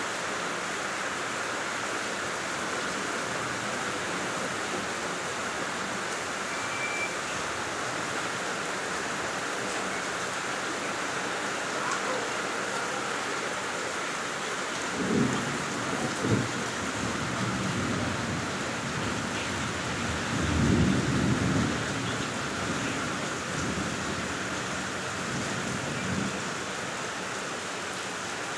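Steady rain falling, with low rumbles of thunder about halfway through: two short ones and then a longer, louder roll.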